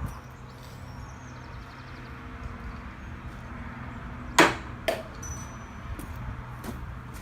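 Two sharp knocks about half a second apart, the first louder, from tools being handled during work on the outboard, over a steady low hum.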